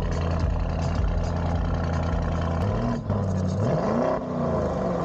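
A vehicle engine idling steadily, then revved in a few quick blips from about three seconds in, its pitch rising and falling with each one.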